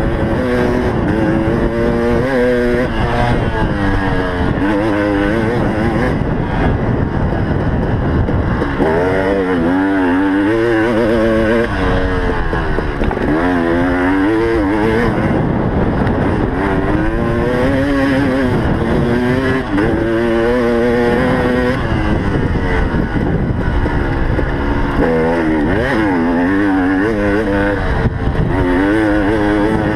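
KTM motocross bike's engine revving hard under racing throttle. Its pitch climbs and falls again and again, every second or two, as the throttle is opened and shut through the gears.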